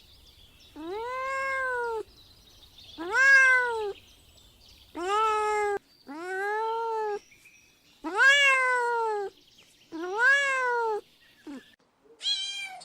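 A kitten meowing over and over: about eight separate meows, most about a second long, each rising then falling in pitch, with two short ones near the end.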